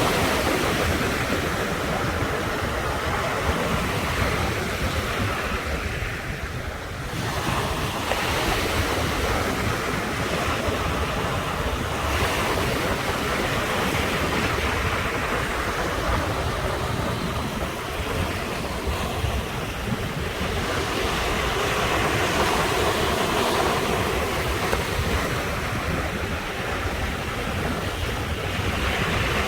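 Sea surf breaking and washing ashore in a continuous rush that swells and ebbs as each wave comes in, easing briefly about six seconds in before the next wave surges. Wind rumbles on the microphone underneath.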